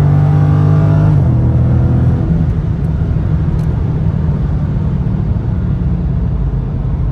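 V8 muscle car under a hard pull from about 60 mph, its exhaust note climbing; about a second in the note drops off suddenly and settles into a low, steady rumble.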